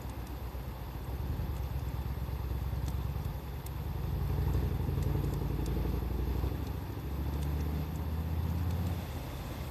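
A low engine drone, like a motor vehicle running nearby, swelling in the middle and easing slightly near the end. Over it come faint scattered crackles from a wood fire.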